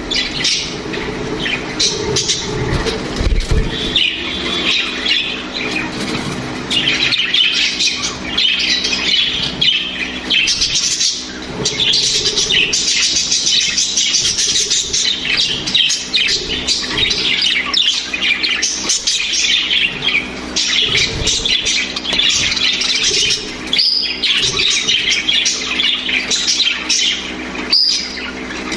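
Budgerigars chattering and chirping non-stop, with many quick high calls and the odd squawk. A steady low hum runs underneath.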